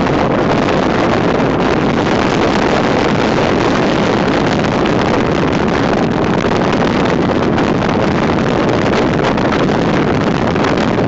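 Wind buffeting the microphone: a loud, steady rushing rumble with no letup.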